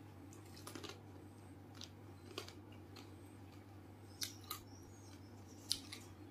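A person chewing a mouthful of crisp pani puri. Scattered sharp crunches and wet mouth clicks come every second or so, the loudest near the end, over a faint steady low hum.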